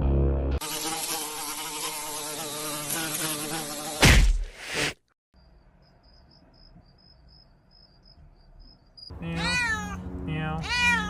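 A cat meowing several times, near the end, in rising-and-falling calls. Before that comes a loud wavering buzz lasting about three seconds, a sharp loud burst about four seconds in, then a quiet stretch with a faint high chirping.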